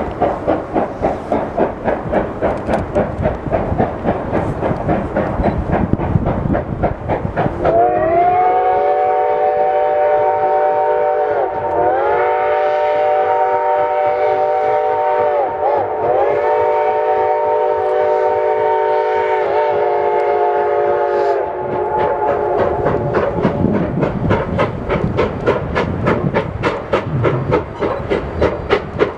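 Reading T-1 class 4-8-4 steam locomotive working: rapid, even exhaust beats from the stack. About eight seconds in, a long multi-note chime whistle sounds four drawn-out blasts that run into one another, with the pitch sagging between them. The whistle stops and the exhaust beats carry on.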